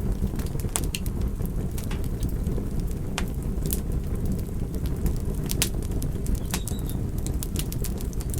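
Campfire burning: a steady low rush of flames with many irregular sharp crackles and pops from the burning wood.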